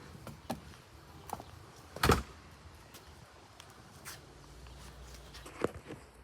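A door being opened and shut, with one loud knock about two seconds in and several lighter clicks and taps around it.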